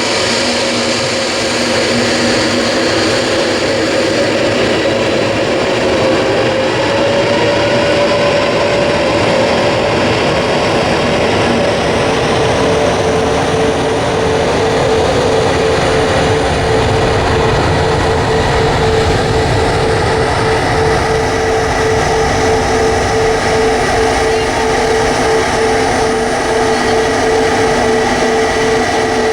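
Airbus A321neo jet engines at takeoff power: a loud, steady running noise with a whine that climbs in pitch over the first several seconds and then holds steady.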